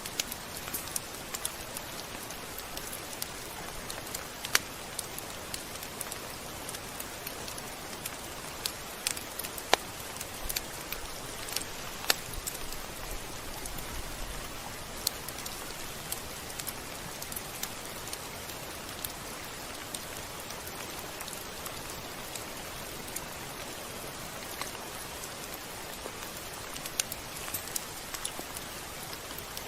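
Steady rain falling, an even hiss with scattered sharp drop hits on a surface.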